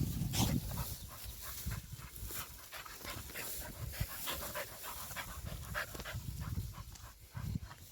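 A dog panting in quick, repeated breaths.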